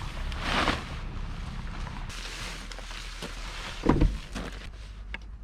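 Nylon tent rain fly rustling and swishing as it is pulled and strapped down, with a single heavy thump about four seconds in, over a steady low wind rumble.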